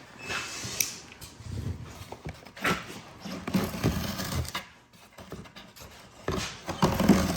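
Hand cutting into the padded door material: irregular scraping and rasping with scattered knocks and clicks, stronger near the end, as the blade works most of the way through.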